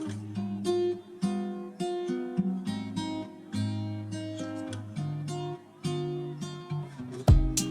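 Background music led by a strummed acoustic guitar; a heavy low beat comes in near the end.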